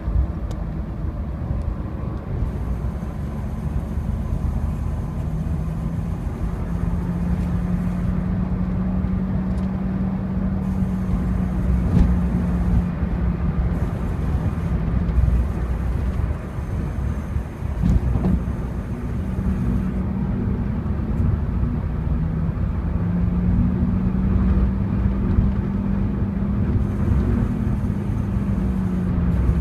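Honda CR-Z driving, heard as steady road and engine drone, with a faint high screech from the rear of the car that comes and goes for several seconds at a time. Two sharp knocks come about twelve and eighteen seconds in. The owner notes the screech comes on over bumps and while cruising, and rules out the brakes because pressing the pedal doesn't set it off.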